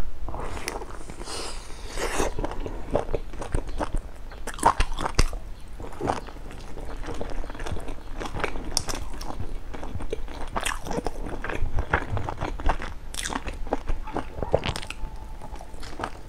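A person biting into and chewing soft stuffed buns with a meat filling, with irregular sharp clicks and wet mouth sounds.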